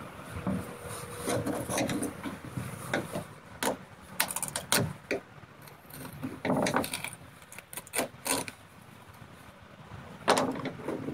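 Irregular knocks, clicks and scraping of wood and debris being handled and picked at by hand, with no power tool running.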